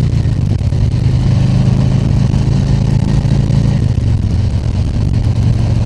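2020 Harley-Davidson Tri Glide Ultra's Milwaukee-Eight 114 V-twin running steadily under way, heard from the rider's helmet with road and wind noise, its note stepping a little lower about four seconds in.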